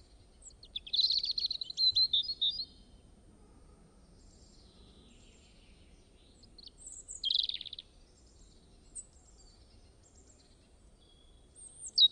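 Birds chirping and singing in short bursts, loudest about a second in, again past the middle and at the very end, over a faint low hiss.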